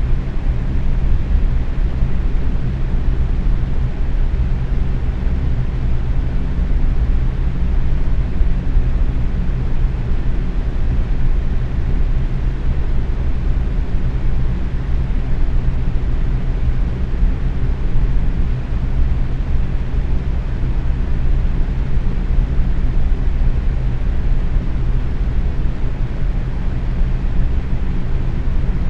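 Box fan running steadily at medium speed: a constant rush of moving air, heaviest in the low end, with a faint low hum under it.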